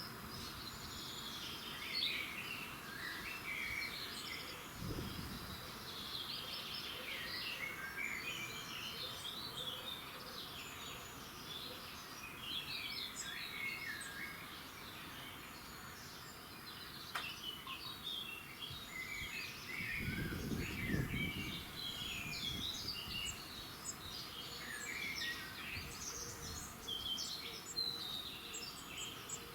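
Several songbirds singing at once at dawn, many overlapping short chirps and trills. A brief low rumble about five seconds in and a longer one around twenty seconds in.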